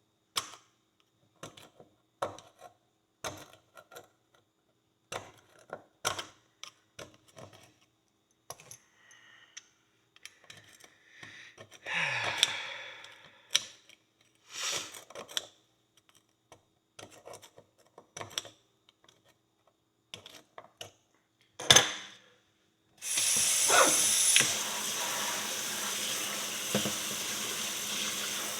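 A pick scraping and ticking against a horseshoe in short strokes as packed dirt is dug out, with one sharp knock a little past the middle. For the last five seconds or so a water jet sprays steadily onto the shoe with a loud hiss.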